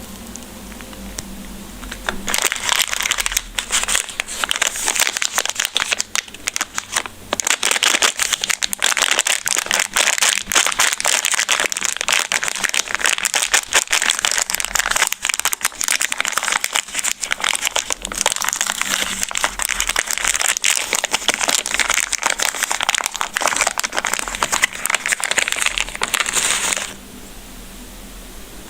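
Crinkling of a plastic candy wrapper being handled and opened, a dense crackle of tiny clicks that starts about two seconds in and cuts off abruptly near the end.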